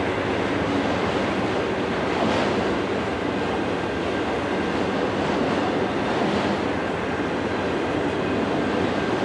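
Enclosed autorack freight cars rolling past: the steady noise of steel wheels running on the rails.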